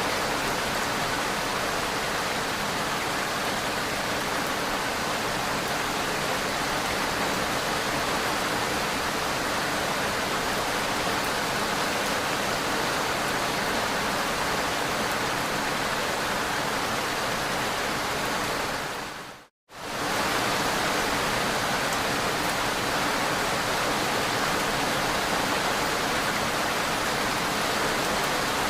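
Steady rushing hiss of water, like heavy rain or flowing floodwater. It fades out to silence for a moment about two-thirds through, then comes back at the same level.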